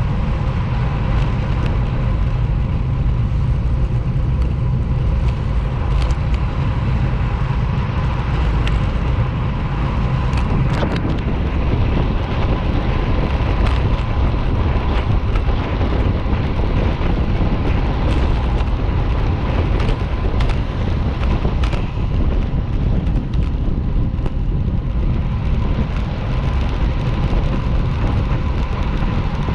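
Motorcycle underway at road speed: steady engine and road rumble mixed with wind noise on the rider's microphone.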